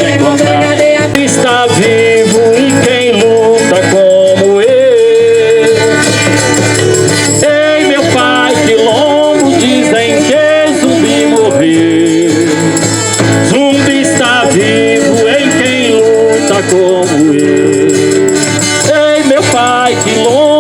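Live folk-style music: voices singing with a hand rattle shaken in rhythm.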